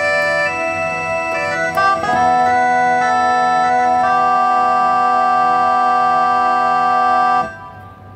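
Yamaha CK61 stage keyboard playing sustained chords on one of its brass/wind voices, with an organ-like tone. The chord changes a few times, and the last chord is held and then released near the end.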